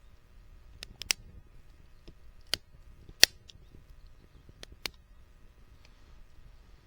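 Burning firewood crackling: single sharp pops scattered irregularly, about one a second, the loudest just past three seconds in, over a faint low rumble of the fire.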